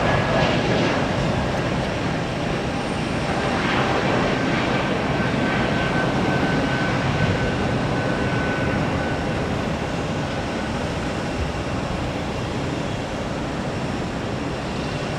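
Jet airliner engines running, a steady rumble with a faint high whine that fades out about nine seconds in.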